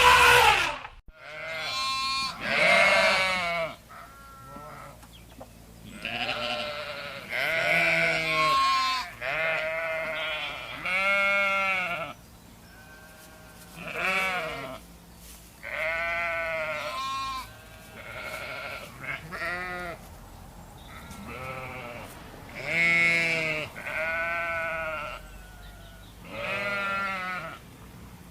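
Sheep or goats bleating over and over, a dozen or more quavering calls of differing pitch, as from several animals. A loud sharp burst comes right at the start.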